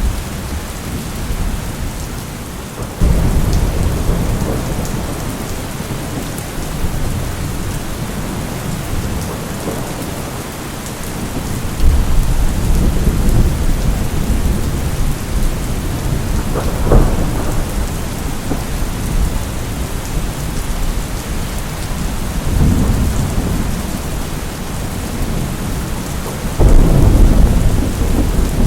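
Steady rain falling throughout, with several rolls of low thunder rumbling in every five to ten seconds. One in the middle has a sharper crack, and the loudest comes near the end.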